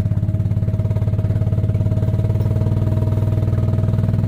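Small engine running at a steady speed, with even, rapid firing pulses and a thin steady whine above them.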